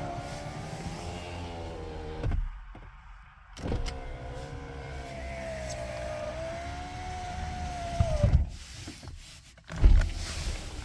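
Lexus GS300 power window motor whining as the glass travels. It runs for about two seconds and stops with a clunk, starts again about a second later, and runs for about four and a half seconds before stopping with a thump. A louder thump comes near the end.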